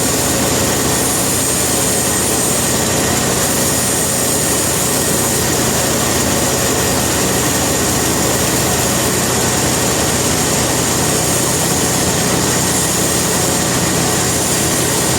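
Sawmill machinery running steadily: a continuous mechanical din with a low hum and a faint high whine, without a break or a sharp impact.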